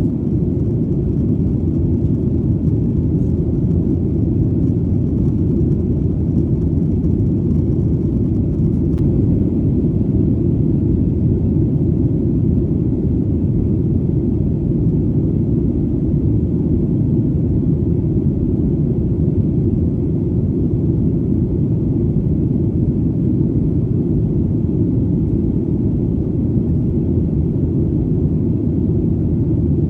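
Steady low rumble of an airplane's engines in flight, even and unchanging throughout.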